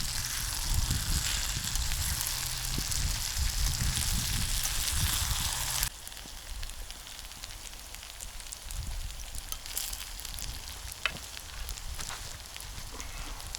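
Potatoes and mushrooms sizzling steadily in a frying pan over a campfire. About six seconds in the sizzle cuts off abruptly, leaving a quieter stretch with scattered sharp clicks.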